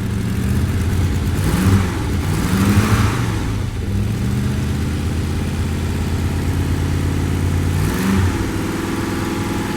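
Triumph Stag's V8 engine, cold, revved up briefly twice in the first three seconds and once more about eight seconds in, settling back to a steady idle between. The graunching from the failing Torquatrol viscous fan coupling bearing does not show while the engine is cold.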